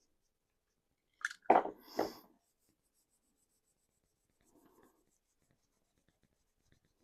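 A small paintbrush scrubbing weathering colour onto a 3D-printed plastic RC car body, in faint scratchy strokes. Just after a second in, a brief high squeak is followed by two short loud noises about half a second apart.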